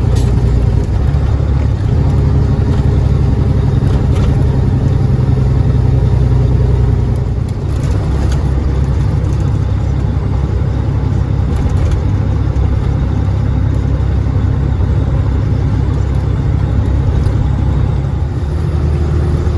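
Cat 3406E diesel engine of a Freightliner FLD120 semi truck pulling steadily at highway speed, heard inside the cab with road noise. About seven seconds in the engine note eases off and gets quieter.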